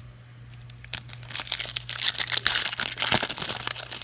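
Wrapper of a trading card pack being torn open and crinkled, a dense crackling from about a second in.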